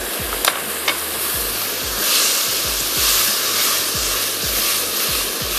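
Onion, capsicum and mushrooms in a soy, honey and chili sauce sizzling in a nonstick wok as they are stirred with a silicone spatula, the hiss swelling briefly in the middle. A couple of light clicks in the first second.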